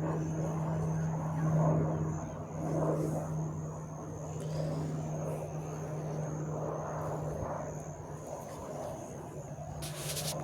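Aircraft flying around the airfield circuit, heard as a steady engine sound with a thin high whine over a rough rumble. A few sharp clicks come near the end.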